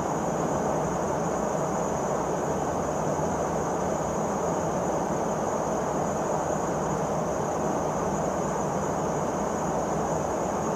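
Steady in-flight cabin noise aboard a Boeing P-8A Poseidon patrol aircraft: an even rushing hum from the engines and airflow, with a thin constant high whine over it.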